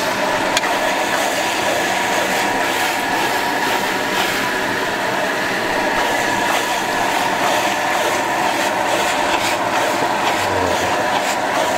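Onion, spices and peanuts frying in plenty of oil in a large aluminium kadhai over a very big gas flame: a steady sizzle and burner noise, with a long steel spatula scraping and clacking against the pan as the masala is stirred.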